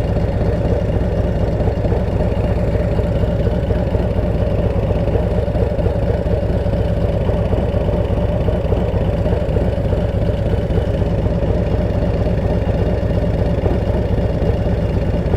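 Harley-Davidson Road Glide ST's V-twin engine running steadily while riding, a constant low engine note with no change in revs.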